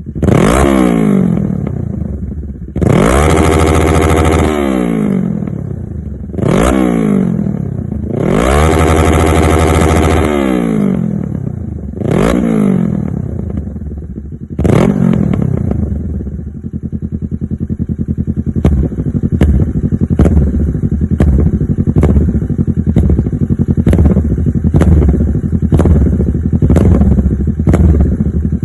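Motorcycle engine through an SC Project muffler, blipped and revved several times, with two longer revs that climb and fall back. It then settles to a low idle broken by sharp, regular beats less than a second apart.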